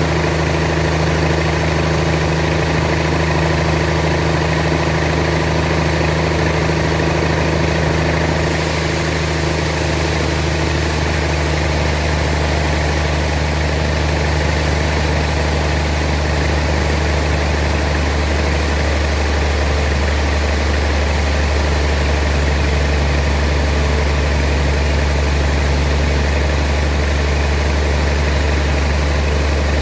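Sawmill machinery running steadily, with a constant low engine-like hum and vibration.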